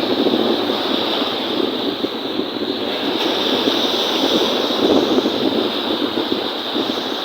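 Wind-driven lake waves washing steadily, with wind buffeting the microphone.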